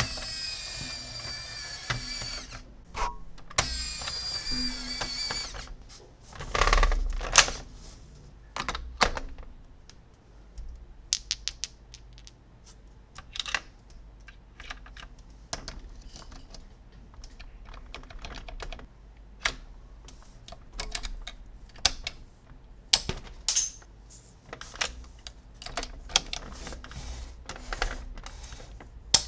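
Plastic toys and their packaging being handled in an unboxing. Two stretches of squeaky, screechy scraping come in the first few seconds, then a brief rustle. After that come many small, sharp clicks and taps of plastic pieces.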